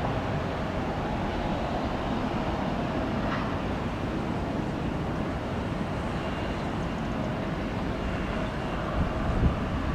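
Jet airliner engines running, a steady rumble with a faint whine, with a few low thumps near the end.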